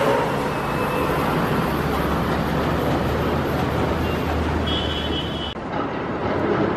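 Steady rumble and hiss of a Chinese Railway CR200J Fuxing passenger train running past and moving away. About five and a half seconds in, the hiss drops off abruptly.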